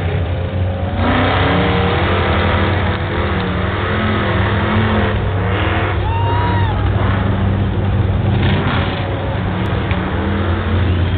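Black Chevy mud truck's engine running loud and hard under throttle, revving.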